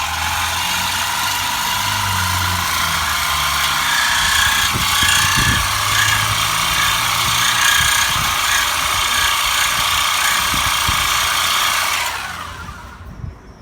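A power tool running steadily for about twelve seconds, then winding down near the end, while the exhaust tips are being installed.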